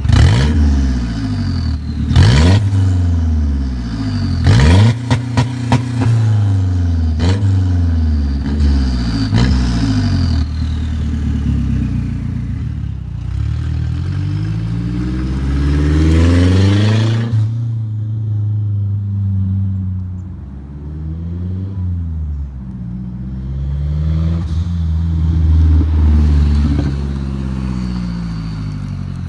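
Mazdaspeed 3's turbocharged 2.3-litre four-cylinder engine revving loudly through an open 3-inch exhaust cutout. The first ten seconds are a string of quick rev blips with sharp cracks on several of them. Then comes a long climb to high revs that drops off suddenly about 17 seconds in, followed by slower rises and falls in engine speed.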